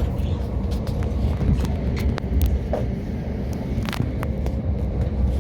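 Steady low running rumble inside a moving passenger train, with scattered light clicks and knocks.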